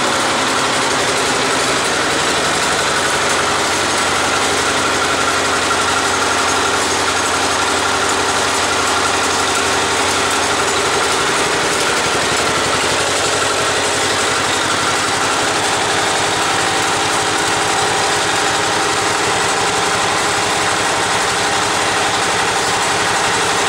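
Diesel engine of a John Deere 110 garden tractor idling steadily, its note shifting slightly about halfway through.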